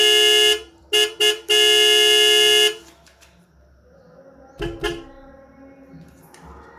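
Vehicle horn honking in blasts: a long blast that stops about half a second in, two quick toots, then a long blast of over a second. After it, two soft knocks close together.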